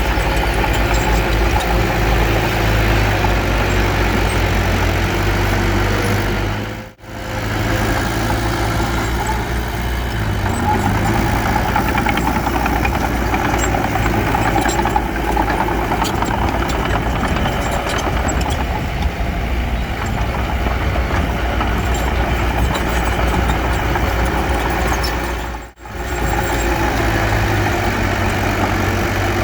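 Heavy diesel engine of a working bulldozer, running steadily, with the sound dropping out briefly twice.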